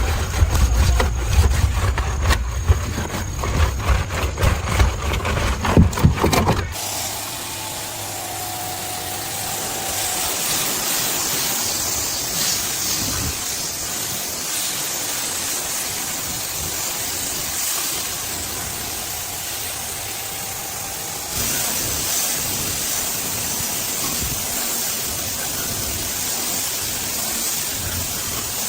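An engine running with a dense, rapid clatter, cut off abruptly about seven seconds in and replaced by a steady hissing noise that lasts the rest of the time.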